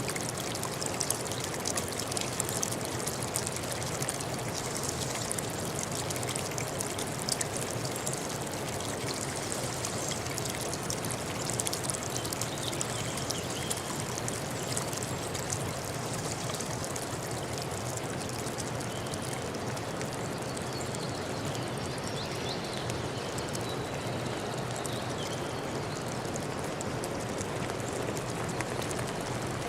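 A forest stream running steadily, with the constant rush and fine trickling and splashing of flowing water.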